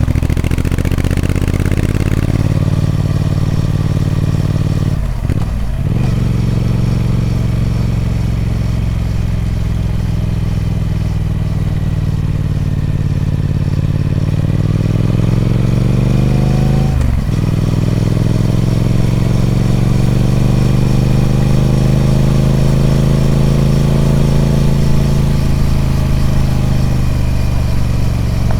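Triumph Speed Twin 1200's 1200cc parallel-twin engine through its stock exhaust, running under load. The note breaks briefly about five seconds in, then climbs steadily and drops sharply about seventeen seconds in, as at an upshift.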